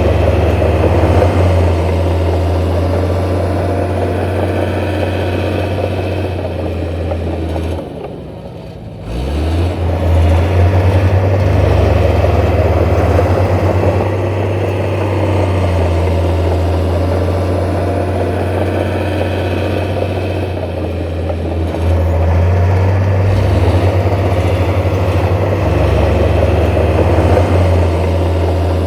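Heavy diesel engine of earthmoving machinery running with a deep, steady drone. The engine drops off briefly about eight seconds in, then picks back up, and shifts again a little past twenty seconds as the load changes.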